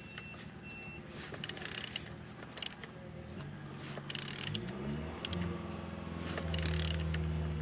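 A removed engine being turned over with a tool: mechanical clicking and ratcheting, then from about halfway a hum that rises twice and holds steady, loudest near the end. It is done to show that the engine turns freely.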